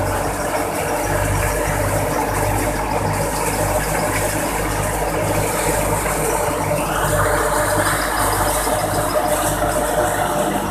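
Tractor-driven thresher threshing mustard: a steady mechanical clatter and rattle of the threshing machinery over the pulsing hum of the Fiat/New Holland 480 tractor's engine under load. A rushing noise grows louder about seven seconds in.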